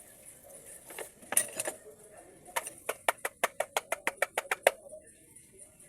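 Sharp metallic clicks from work on a car's automatic transmission valve body: a few separate clinks, then a quick, even run of about a dozen clicks over two seconds.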